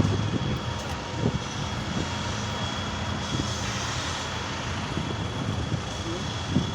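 A heavy trial truck's engine running steadily as a low drone, with a few short knocks over it.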